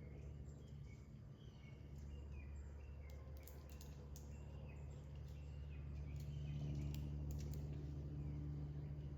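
Faint bird chirps repeating over a steady low hum, with a few light clicks.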